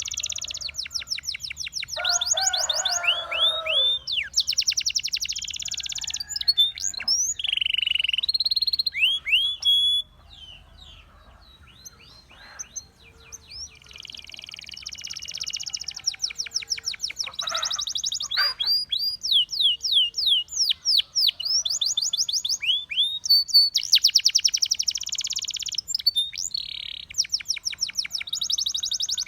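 Russian singing canary singing: fast trills of rapidly repeated notes alternating with upward-sweeping whistles, broken by a quieter pause of a few seconds about a third of the way in.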